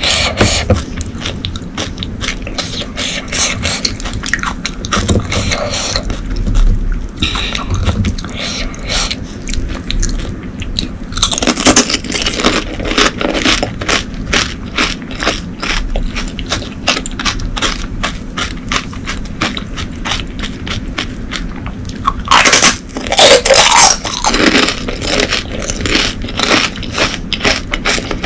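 Close-miked chewing of pani puri: crisp fried puri shells filled with spiced water crunching and crackling in the mouth in a steady run of small crunches. Two louder stretches of about a second and a half stand out, one about a third of the way in and one about four-fifths of the way through.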